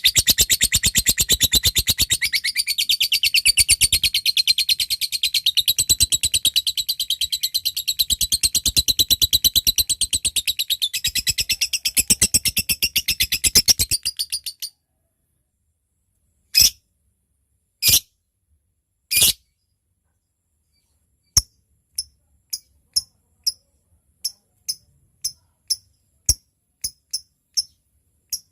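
Lovebird ngekek: a long, rapid chattering trill of high, shrill notes that stops abruptly about halfway through. After a pause come three loud single calls, then a string of short sharp ticking notes, about two a second.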